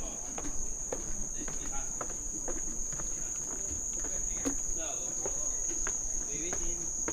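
Steady, high-pitched trilling of insects, likely autumn crickets, running without a break, with irregular light footsteps of someone walking on a path.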